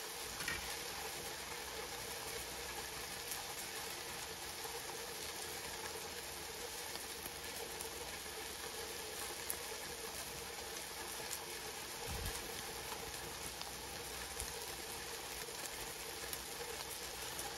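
Diced pork frying in oil in a nonstick wok: a steady sizzle with scattered small crackles.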